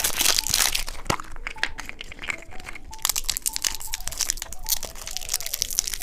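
Plastic candy wrapper crinkling and tearing as a package is opened: a dense run of small, irregular crackles, loudest near the start.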